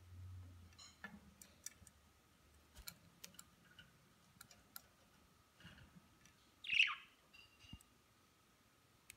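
Budgerigars feeding, with scattered small clicks of beaks pecking and cracking seeds. A few soft chirps are heard, and one louder short chirp that falls in pitch about two-thirds of the way through.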